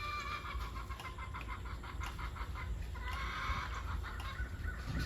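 Farm animal calls: a drawn-out high call at the start, then a run of quick repeated clucking-like pulses, and another short burst of calling about three seconds in.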